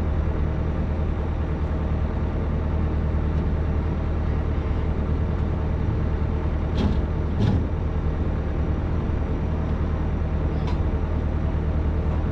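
Excavator's diesel engine running steadily, with two sharp metallic knocks about seven seconds in and a lighter one a few seconds later.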